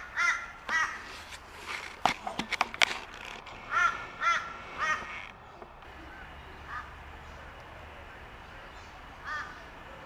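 A bird calling outdoors in short repeated calls, two or three at a time, with a few sharp knocks a couple of seconds in.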